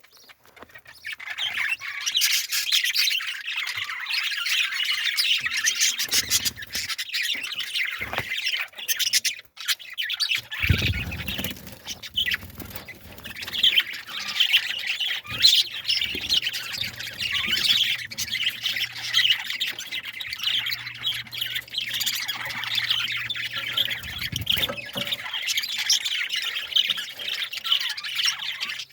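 A flock of birds chirping and squawking together in a dense, continuous chatter.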